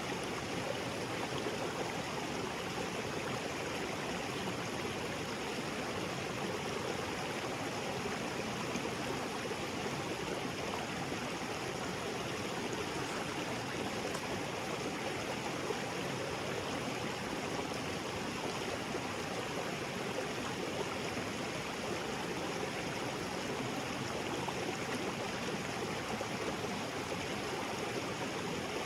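Small waterfall splashing into a rocky creek: a steady, even rush of falling and flowing water.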